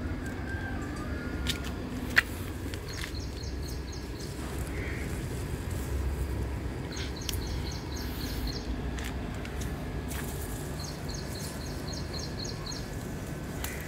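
Outdoor ambience: a steady low background rumble with a bird giving three bouts of fast, evenly repeated high chirps. A single sharp click about two seconds in is the loudest sound.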